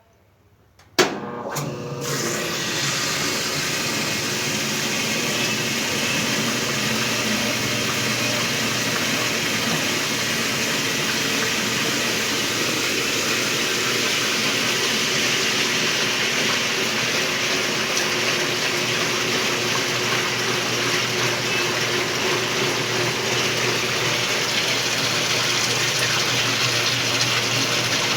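Lavínia washing machine starting its spin cycle: a click about a second in, then a steady rushing run of the motor with water being pumped out.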